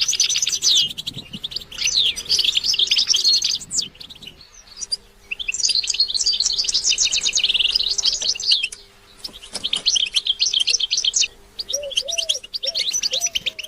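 European goldfinch singing: fast, high twittering phrases of a few seconds each, separated by brief pauses. A low call repeats several times near the end.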